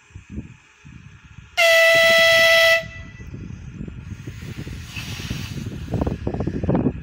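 Electric multiple unit sounding one steady horn blast of just over a second, the loudest sound here. Then the low rumble and clatter of its wheels on the rails grows louder as it approaches.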